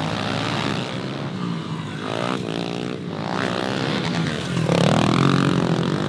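Small pit bike engines running on a dirt track, the revs rising and falling repeatedly as the bikes accelerate and shift, getting a little louder about five seconds in.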